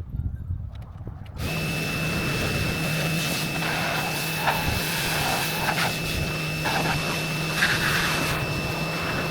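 Pressure washer running steadily from about a second in, a constant high whine and low hum under a hiss of spray.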